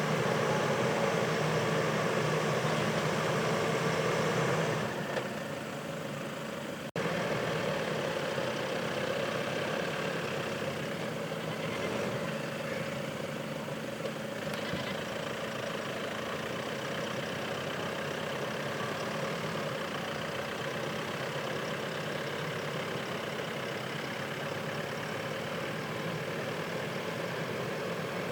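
Diesel 4x4 SUV engine running steadily; the sound dips a few seconds in and breaks off sharply at about seven seconds, then carries on steadily.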